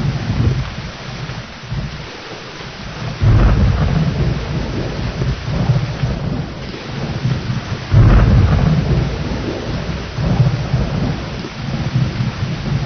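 Steady rain with rolling thunder: two loud rumbles break in sharply, about three seconds in and again about eight seconds in, over the constant hiss of the rain.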